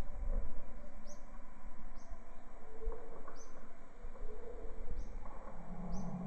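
Jungle ambience: a short, high chirp repeats about once a second over a steady background hiss and hum.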